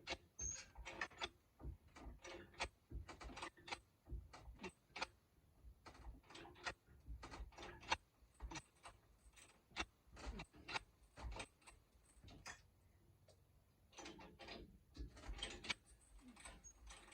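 Scattered light clicks and knocks of hand tools and metal parts being worked, irregular and coming in short clusters.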